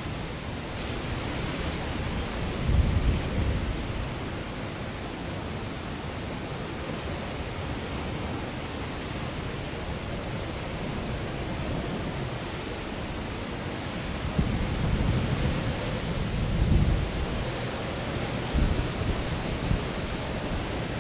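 Strong gusty wind buffeting the microphone: a steady rushing hiss with low rumbling surges about three seconds in, and again in a cluster toward the end.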